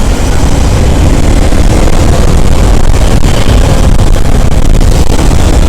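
Motorcycle riding in traffic: a steady, loud, low rumble of engine and road noise.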